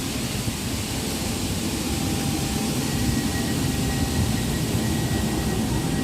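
Steady mechanical drone and hiss of a train standing idling at a station platform.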